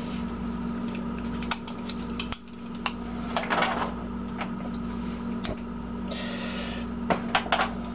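Light clinks and taps of a metal camping cook pot and its lid being handled on a small alcohol stove, over a steady low hum. A short rustle comes near the end.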